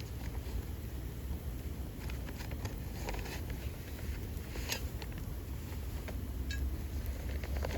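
Wood bonfire crackling, with scattered sharp pops and ticks a second or so apart, over a steady low rumble.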